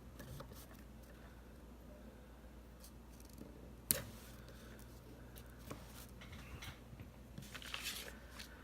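Soft handling of planner stickers, paper and washi tape: faint rustles and small clicks, one sharp click about four seconds in, and a burst of rustling near the end.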